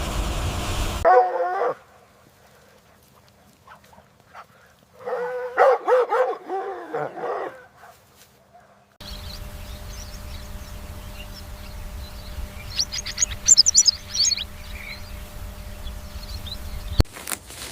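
A dog's short pitched calls: one brief call about a second in, then a run of several bending yips and whines a few seconds later. A different scene follows, with a steady low hum and a brief flurry of high clicking chirps.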